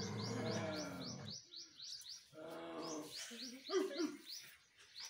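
A small bird chirping over and over, about three short high chirps a second. A low, drawn-out vocal sound fills the first second and a half, and shorter vocal sounds come around the middle.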